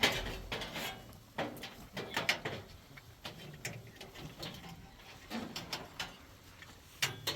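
A series of irregular knocks and clicks, sharpest at the start and again near the end.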